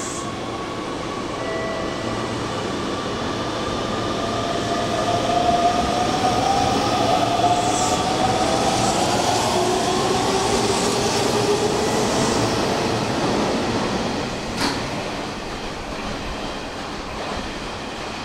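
A Hanshin Railway electric train running along the station platform. Its motors whine with a pitch that rises slowly over several seconds, and a single sharp click sounds near the end.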